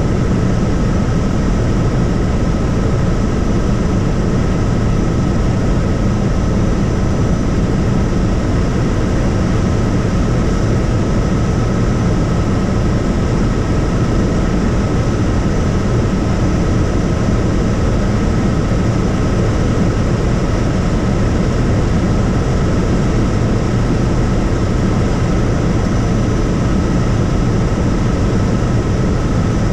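Helicopter in flight: steady, loud engine and rotor noise with a thin constant whine over it.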